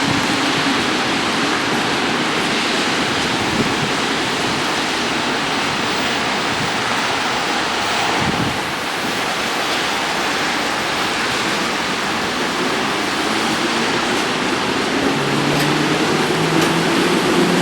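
Steady heavy rain hissing. In the last couple of seconds a low, steady hum from an approaching train comes in under it.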